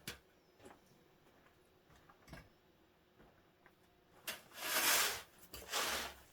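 A few light knocks, then two scraping strokes: a long one of about a second, then a shorter one.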